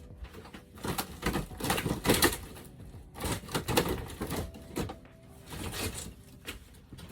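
Irregular knocking and clattering of hands-on demolition work, something being pried and worked loose inside a small room.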